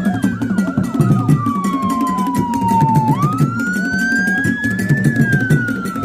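Wailing siren, one slow tone that falls, climbs again about three seconds in, then falls, over music with a steady beat.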